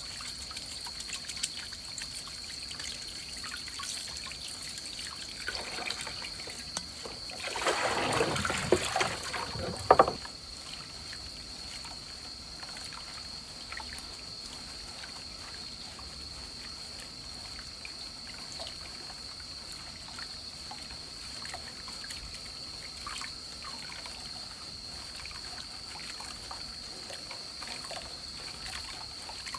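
Water trickling steadily, with a louder rush of water from about 7 to 10 seconds in that ends in a sharp knock. A thin steady high tone sits under it throughout.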